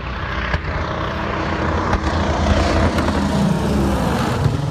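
Convair 340 airliner's twin radial piston engines and propellers running at takeoff, a dense rumbling drone that grows slightly louder.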